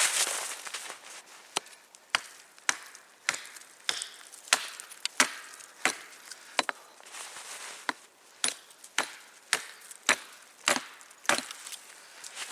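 Firewood being chopped by hand with a blade: a steady run of sharp chopping strikes into wood, roughly two a second.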